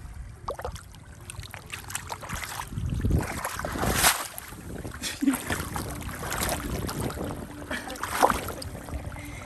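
Water sloshing and splashing with scattered knocks and clicks, swelling loudest about three to four seconds in.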